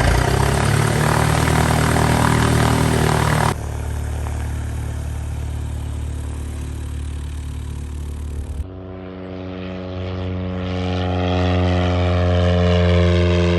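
Single-engine piston propeller airplane engine catching at the start and running steadily. The sound changes abruptly twice, and it grows louder over the last few seconds.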